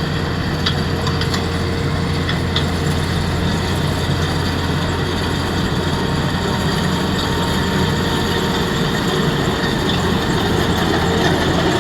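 A machine running steadily with a deep, even, engine-like drone, with a few light clicks in the first few seconds.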